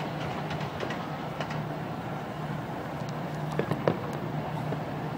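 Aerial fireworks bursting at a distance, with a couple of sharp pops a little over halfway through, over a steady low background hum.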